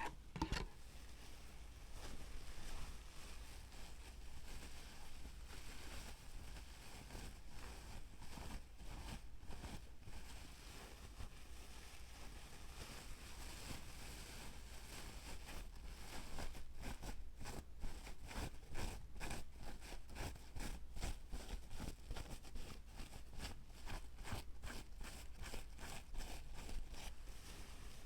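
Close-miked ASMR trigger sounds: scratching and rustling on an object. From about halfway these turn into fast, irregular scratching or tapping strokes, several a second.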